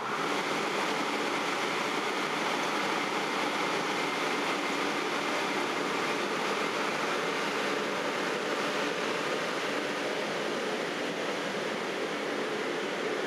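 SJ X2000 electric high-speed train pulling out of the station: a steady noise of the train's running gear and equipment with faint steady whining tones, growing louder suddenly at the start and then holding.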